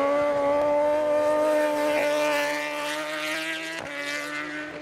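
Superbike racing motorcycle engine held at high revs, one steady note whose pitch creeps slowly upward while the level fades a little. The note breaks off briefly, for a split second, near the end.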